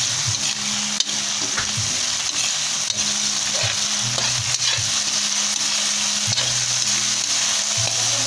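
Small tomatoes, onion and garlic sizzling steadily in hot oil in a steel pan, while a metal spoon stirs them, clicking and scraping against the pan now and then.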